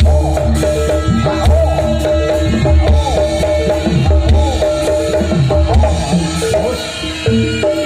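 Jaranan sentherewe music from a loud ensemble: drums beating heavily under steady held metallophone tones, with a gliding, wavering melody line on top.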